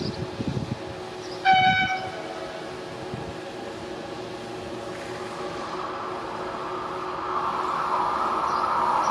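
A train horn sounds once, a short single note, about a second and a half in. From about halfway on, the rushing noise of a train's wheels on the rails grows steadily louder as the train approaches.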